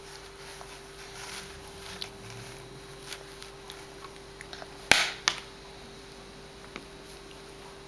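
Quiet room with a steady hum, scattered small clicks and taps, and two sharp knocks in quick succession about five seconds in.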